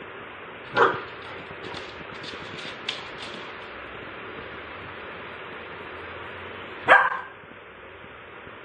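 A dog barking twice, once about a second in and again about six seconds later.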